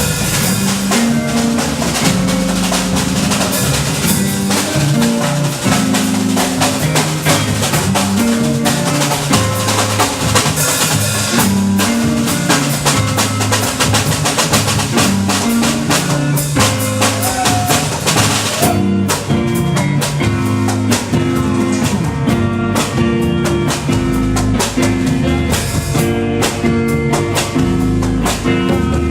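Band music driven by a drum kit with bass drum, snare and rimshots over a moving bass line. A little past halfway the cymbal wash drops out and the bass and plucked notes stand out more clearly.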